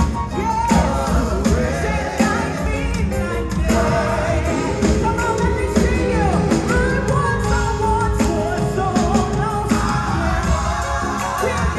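Live gospel music: voices singing over a full band with drums.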